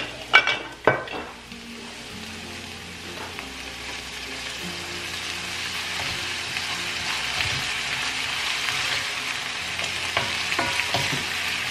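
Chinese sausage and mixed vegetables sizzling in a nonstick frying pan just after soy sauce goes in, with a few sharp knocks of the ladle against the pan in the first second. The sizzle grows steadily louder as the food is stirred.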